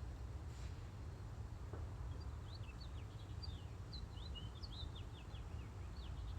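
A small bird twittering: a quick run of short high chirps starting about two seconds in, over a steady low rumble.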